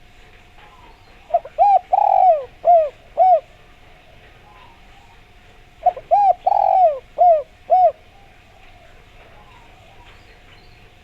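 Spotted dove (derkuku) cooing: two phrases of five coos each, the first about a second in and the second about six seconds in. The third coo of each phrase is longer and louder than the others.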